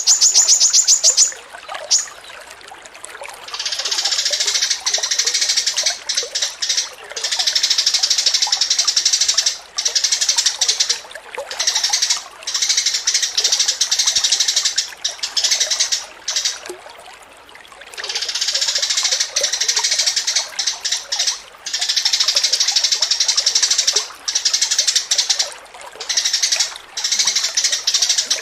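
Captive songbird singing a loud, rapid, dense chattering song. It opens with a fast, even trill, then goes on in long unbroken runs of high-pitched song with short pauses and one longer pause a little past halfway.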